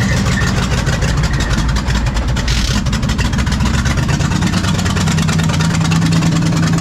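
Ex-NASCAR small-block V8 race engine, a full-roller cam build, running loud with a pulsing beat. About five seconds in, the engine speed is held up on a steadier, higher note.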